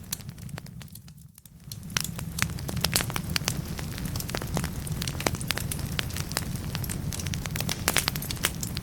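Wood fire burning in a fireplace: a dense, irregular crackle of sharp pops over a steady low rumble. About a second in it dips quiet for a moment, then the crackling resumes.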